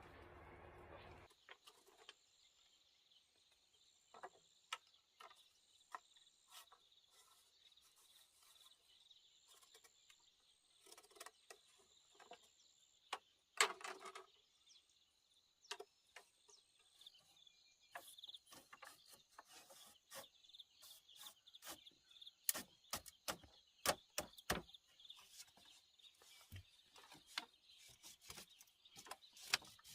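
Faint steady insect buzzing with a pulsing higher trill, over scattered sharp clicks and snaps that grow denser in the second half, with one louder knock about fourteen seconds in.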